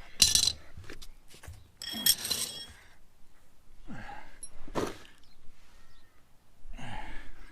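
Steel hand tools clinking and ringing against a motorcycle fork leg as an Allen key and vice grips are worked on the fork's bottom Allen bolt, with a sharp clink about a quarter second in and another cluster of clinks around two seconds. The owner fears the bolt's Allen head has rounded off.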